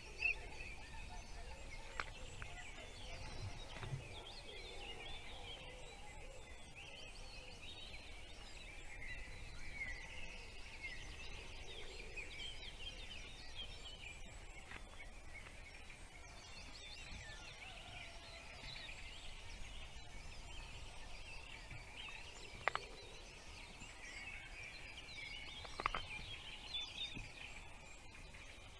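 Small birds chirping: a dense run of short, high chirps throughout, with two sharp clicks in the last third.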